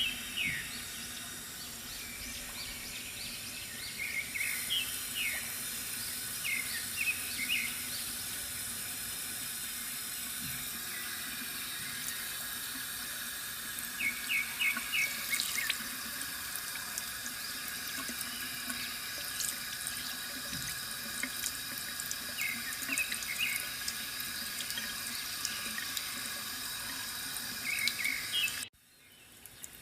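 Water running steadily from a bamboo water fountain, trickling and splashing, with small birds chirping in short bursts every few seconds over it. The sound cuts off abruptly near the end and returns faintly.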